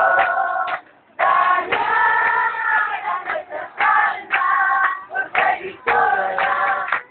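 A crowd of men and women singing a worship song together, in phrases with short breaks between them.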